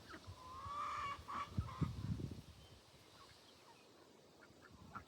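Ducks and chickens feeding: one drawn-out nasal call about half a second in, then a few shorter calls and a cluster of soft low knocks around two seconds in.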